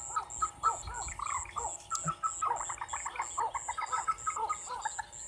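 A night chorus of many short, quick chirping calls, overlapping, over a steady high-pitched pulse that repeats about three times a second.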